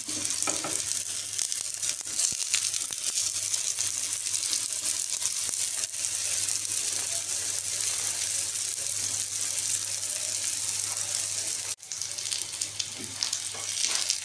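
Folded chicken tikka crepes sizzling steadily in vegetable oil in a frying pan over a medium-to-high flame. The sizzle briefly cuts out about twelve seconds in.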